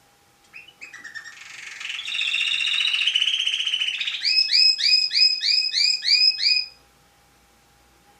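A songbird singing one song of about six seconds: a few short opening notes, a fast buzzy trill, then a run of about eight quick repeated falling notes before it stops. A faint steady tone runs underneath.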